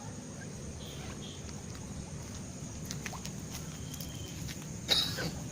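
Rural village ambience: a steady low background with a few faint high bird chirps, some light clicks, and a short, loud, sharp sound near the end.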